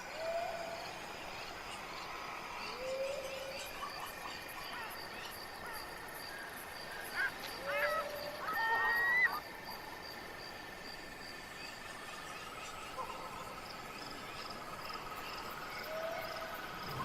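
Wild nature soundscape of frogs croaking with insects trilling steadily in the background. Short rising croaks come every few seconds, and a cluster of wavering, whistled animal calls about halfway through is the loudest part.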